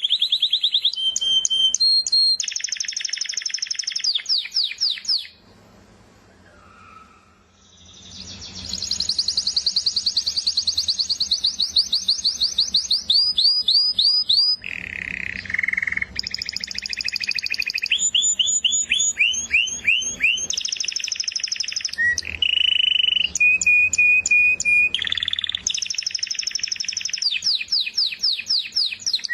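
A canary singing: long, rapid trills of repeated notes that jump from one pitch to another, with a pause of a couple of seconds about six seconds in.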